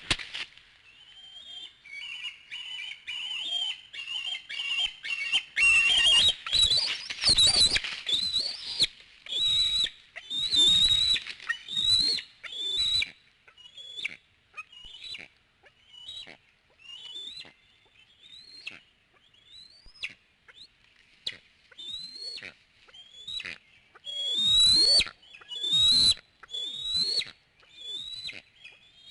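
Young bald eagles at the nest making high-pitched whistled begging calls during a feeding. The calls are a fast, loud chatter for the first dozen seconds, then separate short rising notes about one a second.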